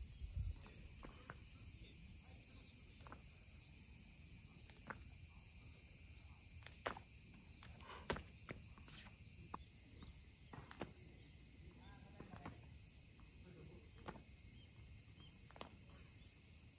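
Steady high-pitched chirring of insects, with scattered faint clicks and knocks and one sharper click about eight seconds in.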